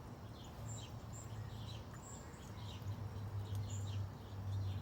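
Small birds chirping faintly: short, falling chirps, a couple each second, over a steady low hum.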